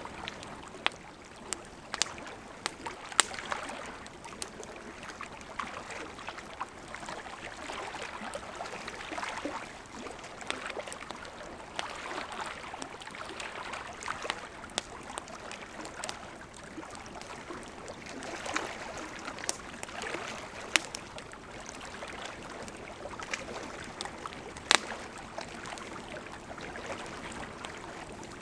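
Wood campfire crackling: irregular sharp pops and snaps over a steady soft hiss of the flames, with a few louder pops.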